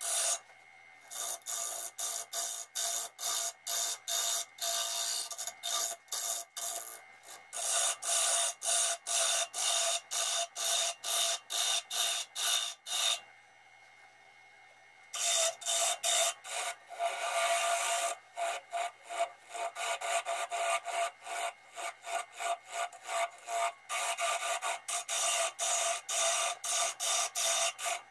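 A spinning walnut bowl on a woodturning lathe being worked by hand: a dry scraping rasp repeated about two or three times a second over the lathe's steady hum, pausing briefly about a second in and for about two seconds midway.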